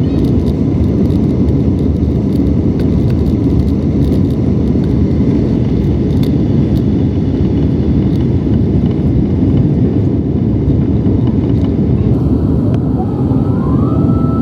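Airbus A350-900 cabin during the takeoff roll: the Rolls-Royce Trent XWB engines at takeoff thrust and the runway rumble make a loud, steady low noise. Near the end a rising whine climbs and then holds steady.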